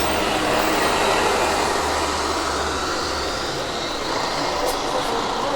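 Engine running steadily under a loud, even rush of wind noise, with a low hum beneath.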